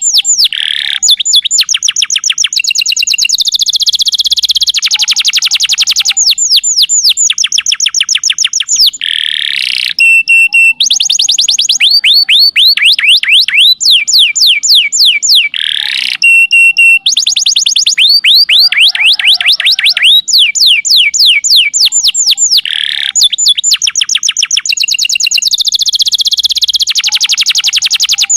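Domestic canary singing a long unbroken song of rapid trills. Each trill is a fast run of repeated sweeping notes, and it switches to a new trill every second or two.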